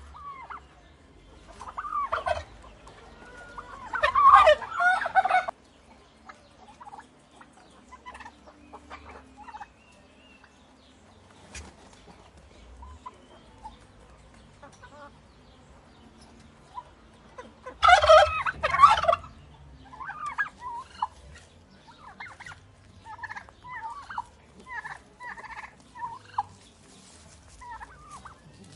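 Turkeys gobbling: a loud gobble about four seconds in and another around eighteen seconds, with shorter, softer calls in between.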